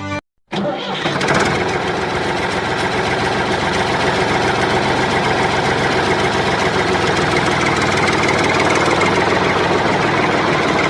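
Small engine running steadily, starting about half a second in and growing slightly louder.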